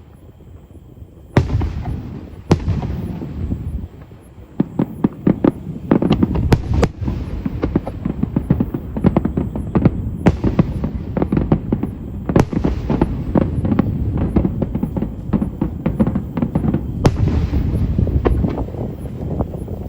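Aerial fireworks display: after a quiet second, two heavy shell bursts boom and echo, then from about four and a half seconds a dense barrage of rapid, sharp crackling reports runs on, with more big booms through it.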